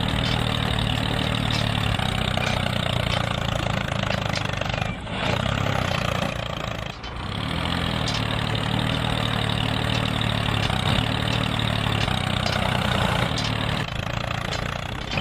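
Motor of a homemade mini tractor running steadily, dropping briefly about five and seven seconds in.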